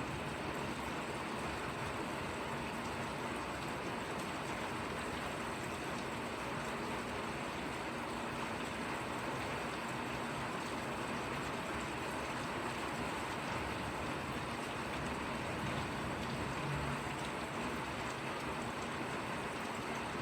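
Steady drizzling rain, an even patter of drops with no let-up. A brief low thud sounds about three quarters of the way in.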